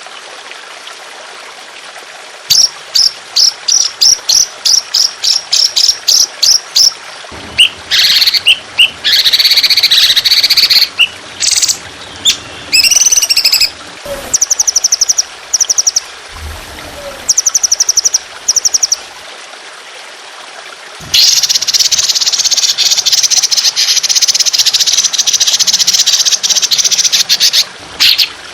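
Songbird song: a run of sharp repeated chirps begins a few seconds in, followed by varied chirps and short trills, then a long dense rapid trill from about two-thirds of the way through. A steady soft trickle of water sounds beneath it.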